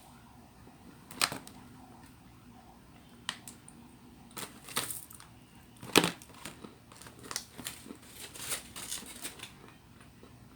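Eating at a table: sharp clicks and knocks of utensils and dishes, the loudest knock about six seconds in, followed by a quick run of smaller clicks.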